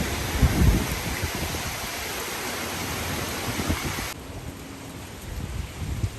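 Typhoon rain hissing steadily, with low gusts of wind buffeting the microphone. The hiss drops away suddenly about four seconds in.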